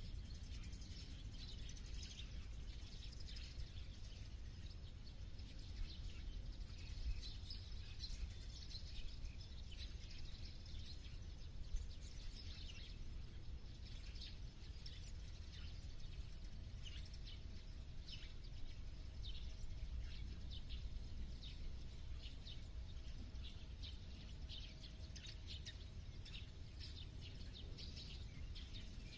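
Many songbirds chirping and calling continuously, short repeated notes, over a steady low background rumble.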